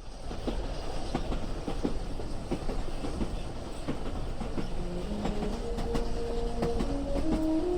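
Train running along the rails, a steady rumble with scattered clicks of the wheels over the track. About five seconds in, music of held notes fades in over it.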